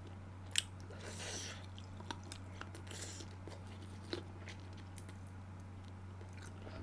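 Quiet close-up chewing of spicy braised pork ribs: soft mouth sounds with a few small clicks and smacks scattered through, over a steady low hum.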